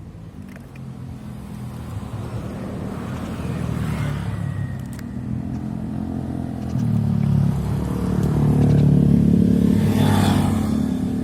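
A motor vehicle's engine running nearby, growing louder toward the end.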